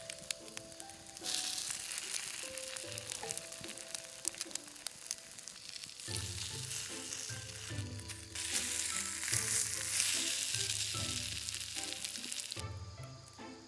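Food sizzling and popping in a hot frying pan, over background music. The sizzle starts abruptly about a second in, eases in the middle, swells again and cuts off shortly before the end.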